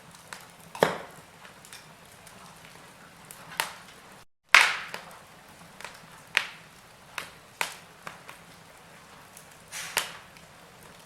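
Wood fire in a fireplace crackling: sharp pops and snaps every second or so over a faint hiss. The loudest pop comes about four and a half seconds in, right after a brief drop-out to silence.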